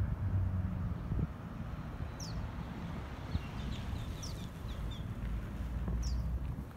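Birds chirping: a short, high call repeats about every two seconds, with a quick run of chirps in the middle, over a steady low rumble.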